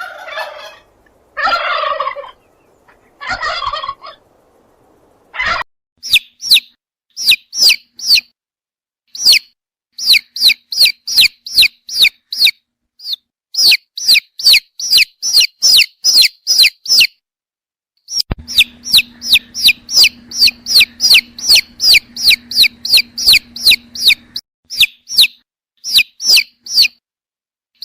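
A turkey gobbling three times, then once more briefly. After that comes a long run of short, high, falling chirps, several a second, in clusters.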